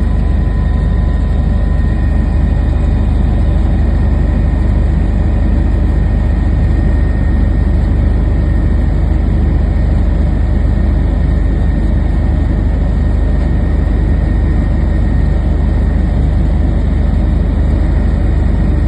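Steady, loud low rumble of an aircraft in flight, with faint steady whining tones above it.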